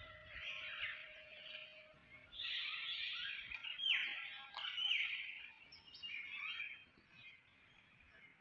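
Small birds chirping and calling, a busy patch of short high notes with a couple of quick falling whistles in the middle, fading out near the end.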